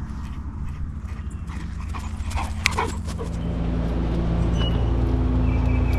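Vehicle engine and road rumble, low and steady, growing louder about three seconds in.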